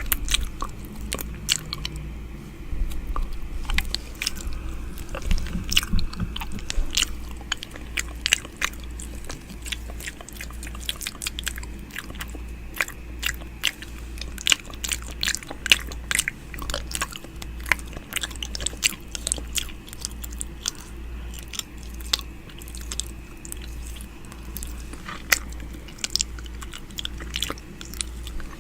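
Close-miked wet mouth sounds of ASMR 'ear eating': many irregular smacks and clicks of lips and tongue, dense throughout, over a low steady hum.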